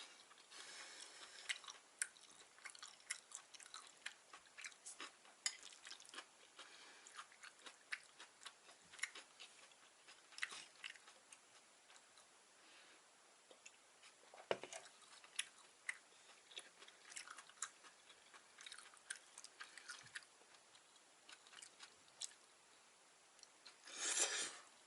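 A person chewing close to the microphone: soft, irregular wet clicks and mouth sounds from eating vegetable gopchang (stir-fried intestines with vegetables). Near the end comes a brief, louder rush of noise.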